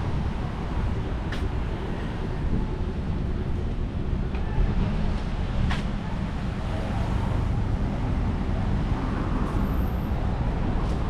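Steady street ambience of road traffic, with two short sharp clicks, one near the start and one about halfway through.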